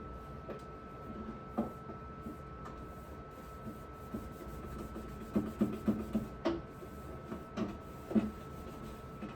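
Light knocks, clatter and rubbing of things being handled while cleaning a refrigerator, with a quick run of small knocks about five to six seconds in, over a faint steady high hum.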